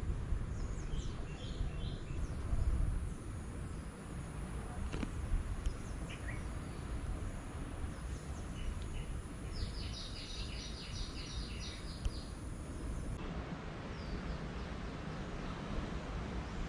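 Outdoor ambience of small birds chirping over a steady low background rumble, with a quick run of about ten high chirps in the middle.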